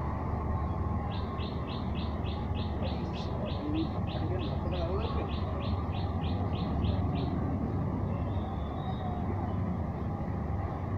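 A bird calling a long run of short, evenly repeated high notes, about three a second, for some six seconds, then stopping. Under it runs a steady low rumble.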